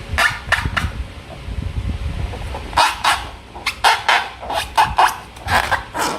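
Slime being squeezed and worked by hand: a string of short, irregular squelching sounds.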